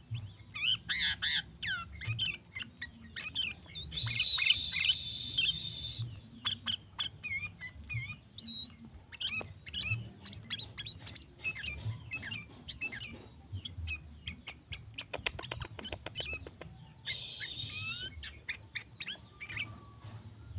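Sooty-headed bulbul (kutilang) calling over and over with short chirps and whistled notes. There is a quick run of ticks about fifteen seconds in.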